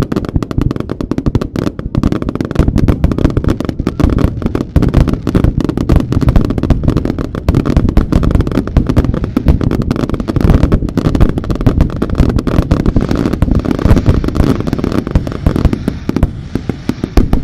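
Starmine fireworks barrage: shells launching and bursting in rapid, unbroken succession, many sharp reports a second. A hiss joins in over the last few seconds.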